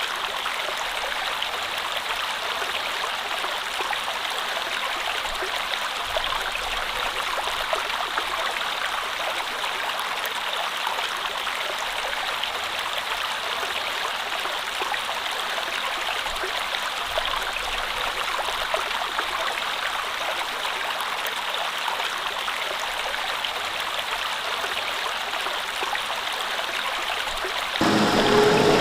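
Stream water flowing steadily in an even rush. About a second before the end it cuts abruptly to a louder sound with a steady pitched hum in it.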